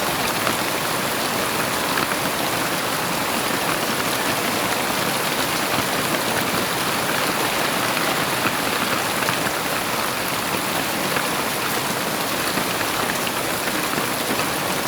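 Heavy rain falling steadily, a dense even patter of drops with no thunder.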